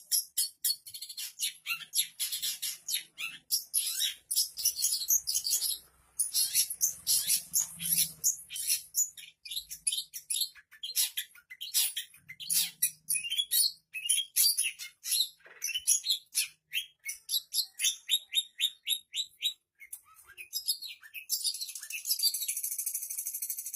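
Long-tailed shrike (pentet) singing a fast, varied song of sharp chirps and short trills, packed with mimicked calls of other birds. Near the end the song turns into a continuous harsh, raspy chatter.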